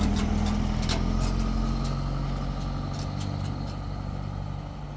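A vehicle engine running steadily, growing gradually fainter, with a few light clicks over it.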